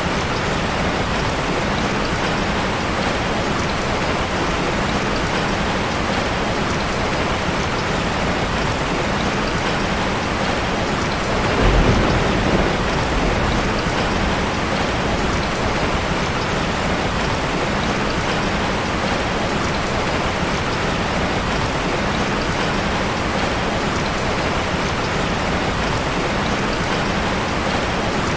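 Heavy rain falling steadily, with a brief low rumble of thunder about twelve seconds in.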